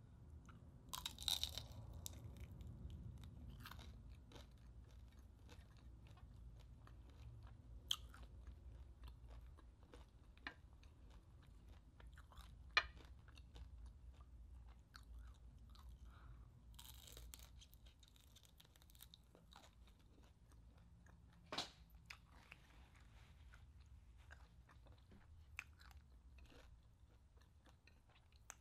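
Close-up chewing of crispy deep-fried chicharon bulaklak (pork intestine), with a few sharp crunches scattered among softer chewing.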